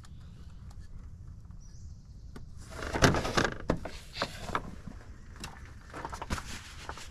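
Metal hand tools clattering and scraping for about a second, about three seconds in, followed by a few separate sharp clicks and knocks, over a low steady hum.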